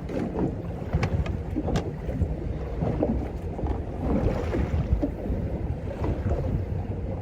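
Wind buffeting the microphone and water moving around a small boat's hull, with scattered short clicks and knocks, clearest in the first two seconds.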